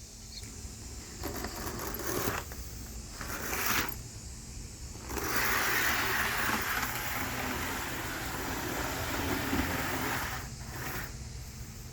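Athearn HO scale rail diesel car's small rubber-band-drive motor whirring, with the wheels rattling along the track as the powered car runs fast. It gets louder from about five seconds in and drops back near the end.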